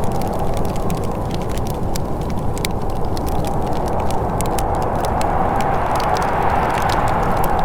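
Wood fire crackling in a fireplace: frequent small sharp pops and snaps, scattered at random, over a steady low rushing background.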